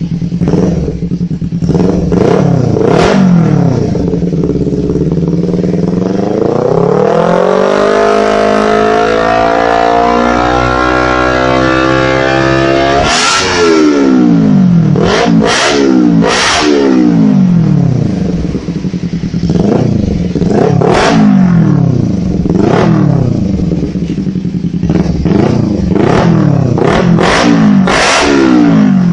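Kawasaki Ninja 250FI parallel-twin engine breathing through a LeoVince Drag Titan full-system aftermarket exhaust, idling and being revved. About a fifth of the way in, the revs climb in one long rise and are held until near the middle, then drop suddenly. After that come repeated quick throttle blips, each rising and falling back to idle.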